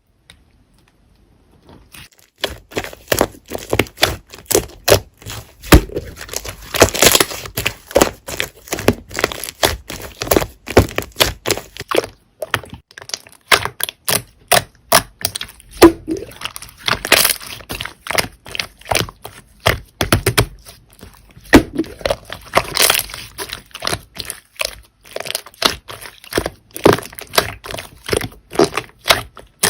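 Slime being squeezed and pressed by hand, making a dense run of sharp crackling and popping clicks that starts about two seconds in.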